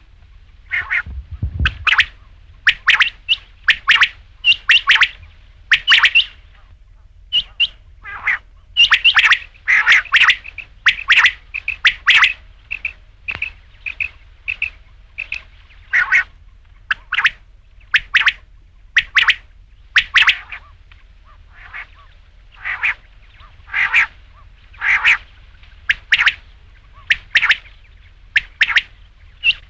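Quail calling over and over in short, sharp notes, roughly one or two a second, with a faster run of notes in the middle. A brief low thump comes about a second and a half in.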